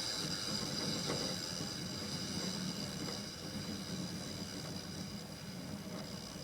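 2004 Hampton Bay (by LG) 8,000 BTU window air conditioner just switched off, its fan motor running down with a steady hum that slowly fades. The owner says the fan motor's bearings are already going.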